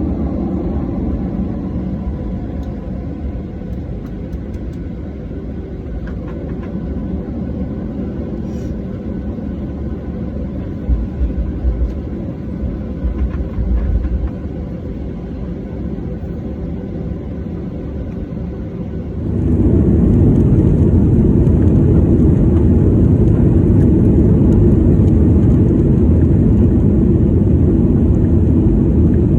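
Steady low rumble of a moving vehicle, stepping up suddenly to a louder, harsher level about two-thirds of the way through.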